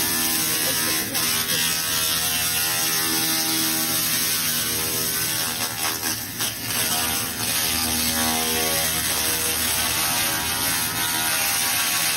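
Laser rust-removal cleaner working over rusty metal: a steady, continuous buzz with a hiss.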